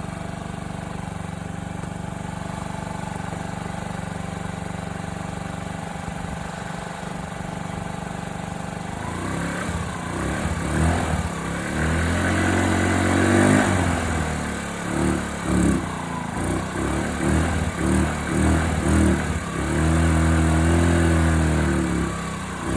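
Honda Ruckus 49cc single-cylinder four-stroke scooter engine idling steadily, then revved repeatedly from about nine seconds in, in short blips and two longer held revs.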